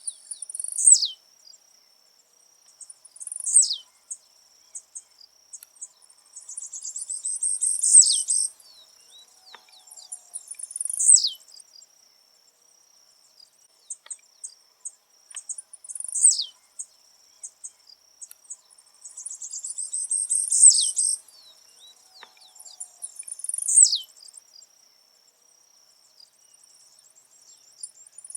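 Blue-black grassquit (tiziu) repeating its short, buzzy song about seven times, a phrase every few seconds, each ending in a sharp falling sweep; two of the phrases are longer, with a rising buzzy lead-in.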